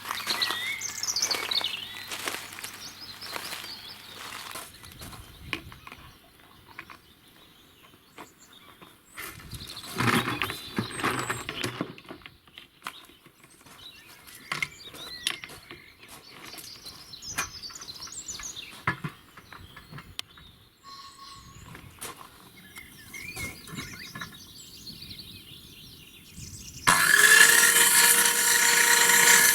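Small birds chirping and singing outdoors, with scattered clicks and rustles. Near the end a power-tool motor starts and runs loudly with a steady whine.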